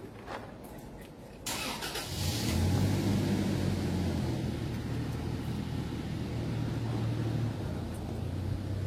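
An engine starts about a second and a half in, then runs with a steady low hum.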